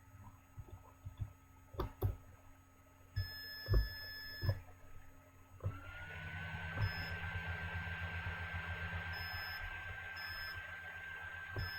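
Small electronic buzzer on a breadboard circuit. After a few sharp clicks it gives a short high beep of about a second, then, about six seconds in, starts a continuous high-pitched tone that settles slightly in pitch and keeps sounding.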